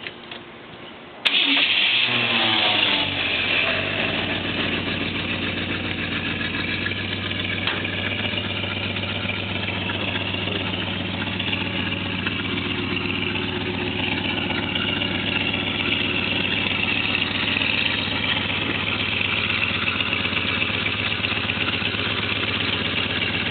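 1972 Ford pickup truck's engine starting about a second in. It runs fast and loud for a couple of seconds, its pitch falling, then settles into a steady idle.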